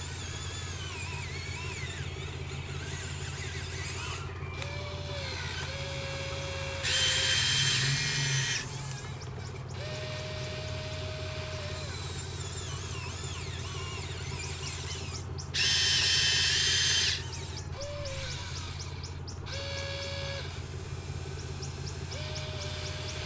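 Small electric motor and hydraulic pump of a remote-control excavator whirring steadily, rising twice to a louder, higher whine for about a second and a half as the pump comes under load.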